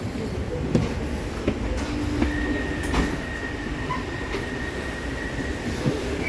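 Electric passenger train running on rails: a steady rumble with scattered clicks of the wheels over rail joints. A steady high-pitched whine starts about two seconds in and stops near the end.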